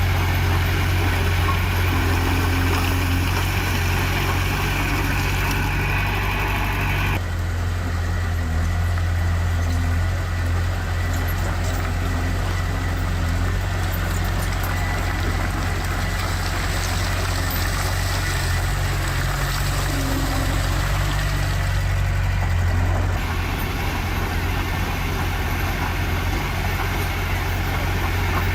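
Heavy diesel engine of earthmoving machinery running steadily with a deep, even hum. The sound changes abruptly about seven seconds in and again about three-quarters of the way through.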